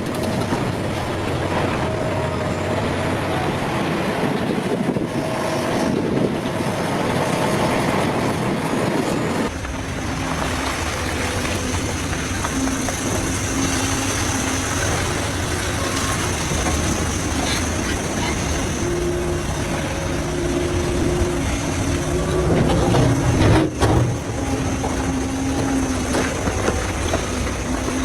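Heavy mining machinery running steadily, engine noise with a faint steady whine. The sound changes character about ten seconds in, and a single loud knock comes near the end.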